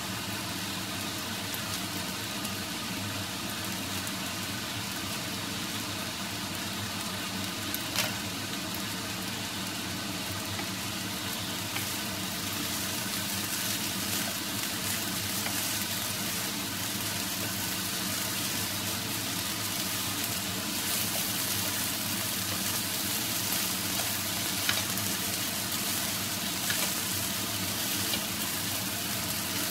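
Egg fried rice with peppers and spring onion sizzling steadily in a non-stick frying pan as it is turned with two wooden spatulas. The sizzle grows a little louder partway through, and a few sharp clicks of the spatulas against the pan break through it.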